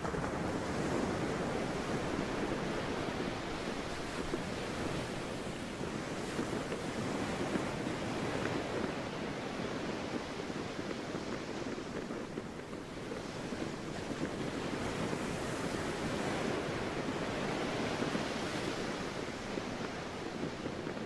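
Sea waves washing in a steady, unbroken rush that swells and eases a little.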